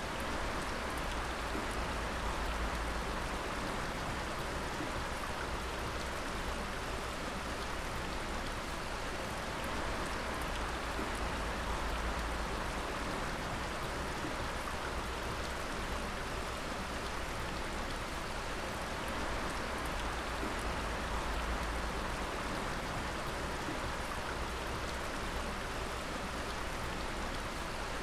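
Water dripping steadily: many drops pattering and splashing at once, over a low rumble.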